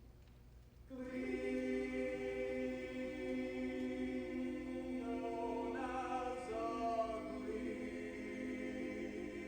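A high school choir singing, coming in about a second in with long held chords; the voices move to new notes around the middle, then hold again.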